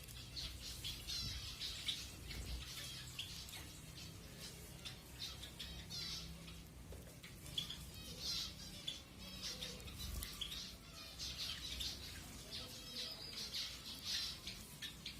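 Several zebra finches calling, a steady stream of short, nasal beeping calls in quick succession from a small flock.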